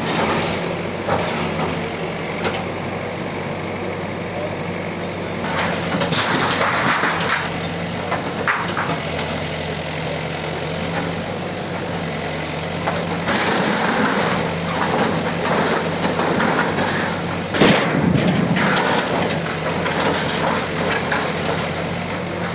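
Demolition bulldozer's engine running steadily, with several louder spells of crunching, cracking noise and one sharp crack about eighteen seconds in.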